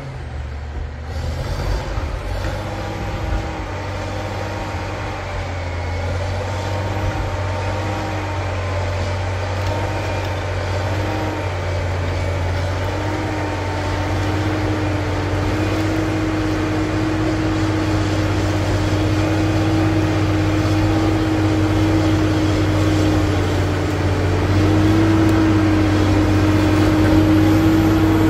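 Caterpillar D7G bulldozer's six-cylinder diesel running under load, with a whining tone that pulses about once a second at first and then holds steady, the whole growing slowly louder toward the end.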